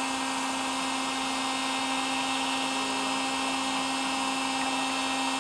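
Electric heat gun running steadily, its fan motor giving a constant hum over the rush of blowing hot air.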